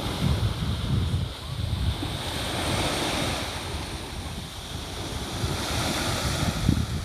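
Sea waves washing on the shore, with wind buffeting the microphone in uneven gusts.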